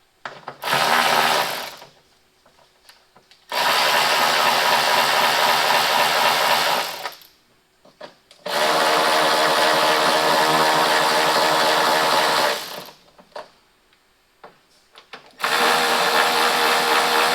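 Handheld power tool run in four stretches on a headlight's mounting nuts: one short burst, then three long steady runs of about three to four seconds each. The nuts are not coming off.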